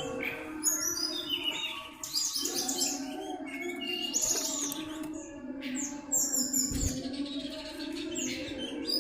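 Cipow (common iora) singing a busy run of quick chirps and whistles, one after another with short gaps.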